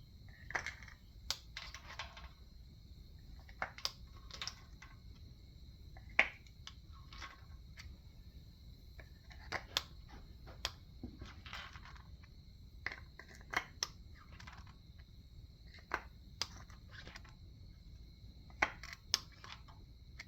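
Scattered sharp clicks, clinks and short scrapes of tools and metal engine parts being handled during an engine teardown, irregular and roughly one every second or two. The loudest is a sharp knock about six seconds in.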